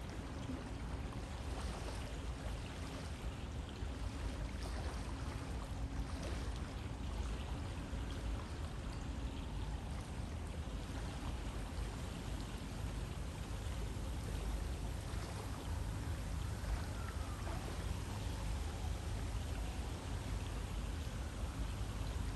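River water flowing steadily, a constant rushing wash with a deep low rumble.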